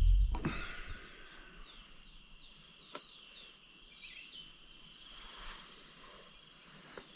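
Faint outdoor morning ambience with a few short falling bird chirps in the middle. A brief low rumble on the microphone opens it, and there is a single click about three seconds in.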